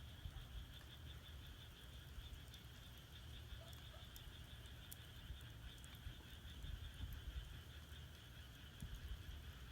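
Faint, steady chorus of frogs trilling, with firewood burning in an agungi (wood-fired furnace): a low rumble and scattered small crackles.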